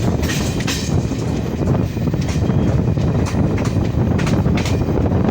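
Passenger train running along the track: a steady loud rumble with irregular clicks and clatter from the wheels over the rails.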